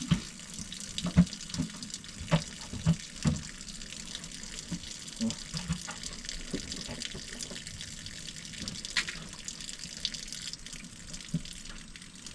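Coolant-laden fluid pouring steadily from the open oil drain of an old excavator's diesel engine into a catch pan, with a few sharp knocks, mostly in the first few seconds. Antifreeze is draining out of the crankcase, a sign of coolant in the engine oil.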